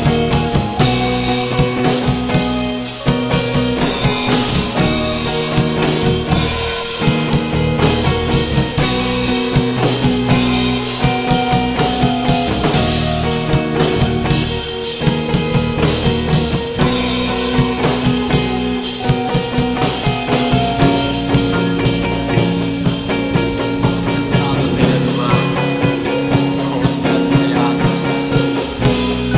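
Post-rock/screamo band playing a loud instrumental passage: distorted guitars holding sustained notes over a busy drum kit with frequent cymbal and snare hits.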